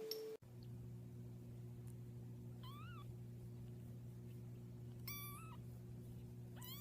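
A cat meowing three short times, spaced a couple of seconds apart, the last rising, over a steady low hum.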